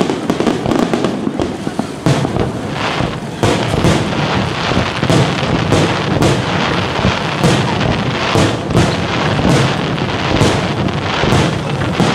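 Aerial fireworks display: shells launching and bursting in a rapid, continuous series of bangs, one after another every half second to a second.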